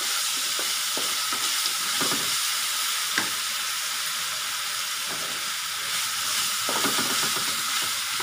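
Sliced onions, dried red chillies and ginger-garlic paste sizzling steadily in hot oil in a wok, with a spatula scraping and stirring them every second or so.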